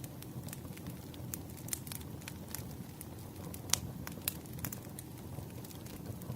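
Wood fire crackling: irregular sharp pops and snaps over a steady low rumble of burning logs, with one louder pop a little under four seconds in.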